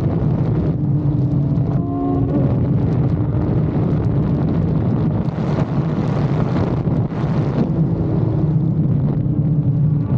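Motorcycle engine running under way, mixed with wind rushing on the microphone; the engine note rises briefly about two seconds in.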